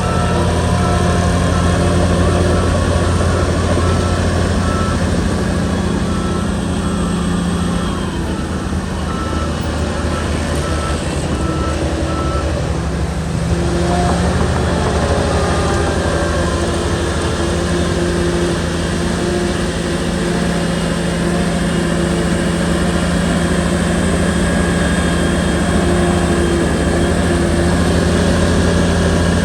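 Diesel engine of a SHANTUI bulldozer running steadily under load, with a reverse alarm beeping evenly for the first twelve seconds or so. The engine note eases off briefly about halfway and then picks up again.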